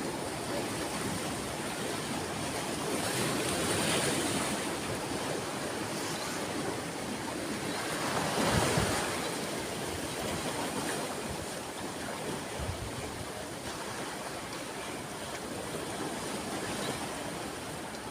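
Sea waves breaking and washing in, a steady rushing hiss that swells twice, the bigger swell about halfway through.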